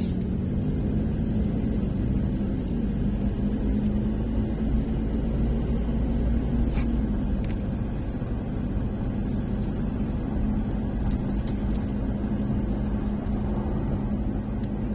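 A car driving along: steady engine hum and low road rumble.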